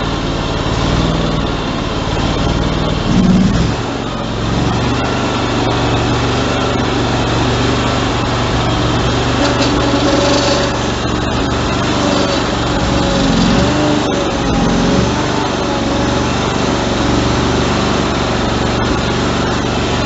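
Cub Cadet 3165 garden tractor engine running steadily after a cold start on choke, its speed wavering slightly in a surge that a tune-up with new plugs and air filter has not cured. There is a brief louder swell about three seconds in.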